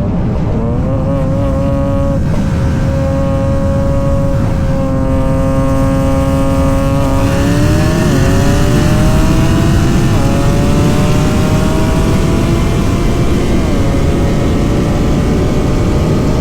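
Supercharged Hellcat V8 cruising at a steady pitch, then opened up to full throttle about seven seconds in for a 60 mph roll race. The pitch climbs, with short drops at upshifts about eight, ten and fourteen seconds in.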